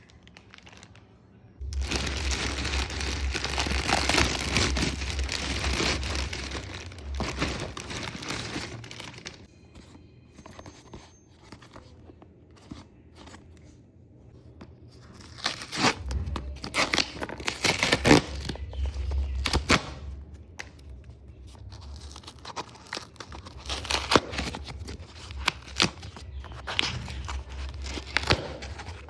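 Packaging being torn open and handled: a long stretch of tearing and crinkling of plastic wrap and paper, then bursts of crinkling with sharp clicks and knocks as the box is worked open.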